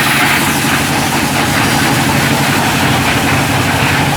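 Meatball grinding machine's motor running steadily, a constant low hum with a whirring noise above it.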